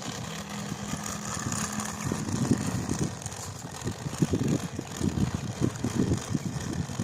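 A truck running with a low engine hum, then irregular low rattling and knocking from about two seconds in.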